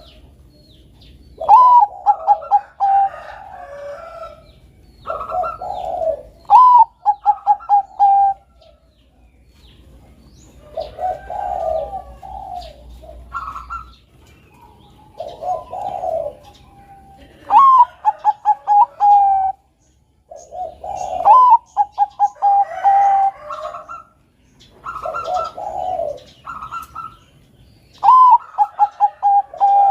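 Bangkok-type zebra dove (perkutut) cooing. It sings repeated phrases about every four to five seconds, each a rising note followed by a quick string of short, even coos, with faint high chirps in between.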